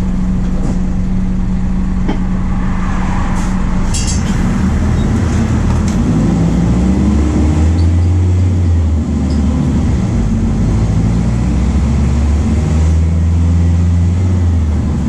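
MAN D0834 four-cylinder turbodiesel of a VW 17.230 OD bus running. Its hum drops to a deeper, louder drone about four seconds in, with a brief dip near nine seconds.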